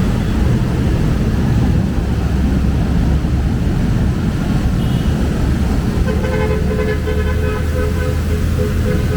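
Road traffic with a steady low rumble of engines. About six seconds in, a vehicle horn sounds for a couple of seconds, breaking into shorter toots near the end.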